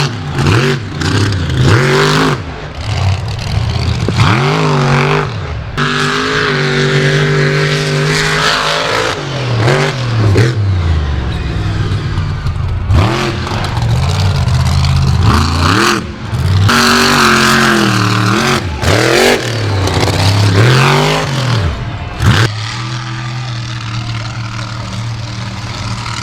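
Monster truck's supercharged V8 engine revving hard and falling off again and again, the sound breaking off abruptly several times, then holding a steadier lower note near the end.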